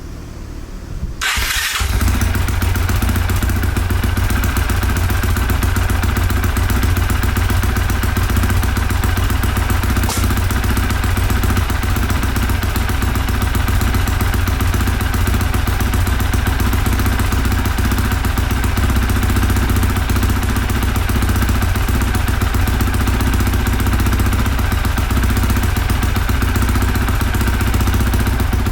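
2023 Honda CRF450R's single-cylinder four-stroke engine starting up about a second and a half in, then running at a steady speed. The bike, which would not start before its repair, now fires and keeps running.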